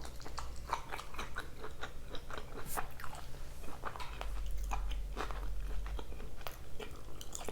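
Close-up chewing and biting of a person eating, with many small crunches and clicks from the mouth.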